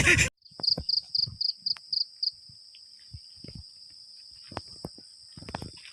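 Night insects such as crickets trilling steadily: one high trill pulses about four times a second for the first two seconds, then runs on unbroken, with a second, higher trill above it. Scattered soft knocks and thumps sound beneath.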